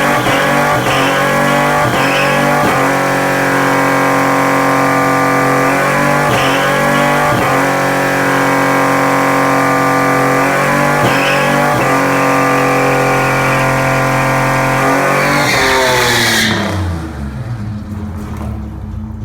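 A car engine running at high revs together with music, the pitch holding and stepping for most of the time, then sliding down as the sound drops away about three seconds before the end.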